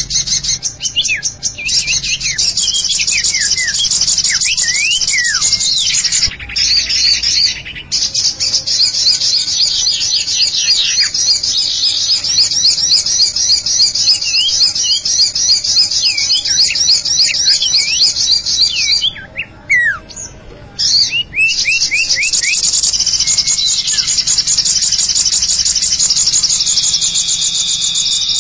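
Bird-lure recording of cipow (sirtu) calls. Fast, high chattering trills run on with falling whistled notes mixed in, and they briefly drop out about two-thirds of the way through.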